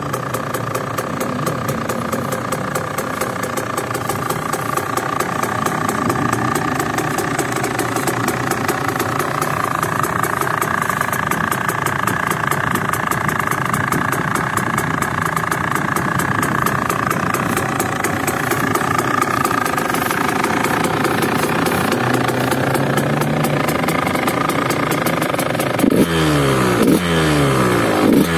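Suzuki RM125 two-stroke single-cylinder engine, fitted with a VHM cylinder head, running steadily at a fast idle, then revved in several quick blips near the end.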